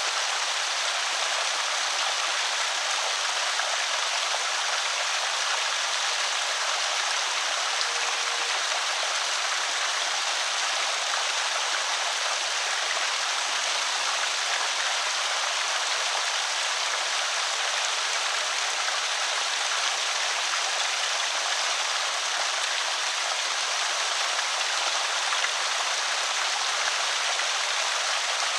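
Water pouring steadily over a small creek spillway: an even, unbroken rush of falling and splashing water.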